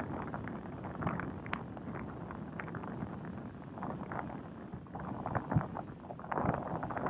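Wind buffeting the microphone over a steady low harbour rumble, with scattered short, irregular higher-pitched sounds on top.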